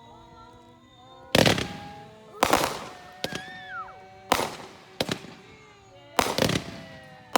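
Consumer fireworks exploding: a loud bang every second or two, each with a short rumbling tail, and a quick cluster of sharp cracks near the end.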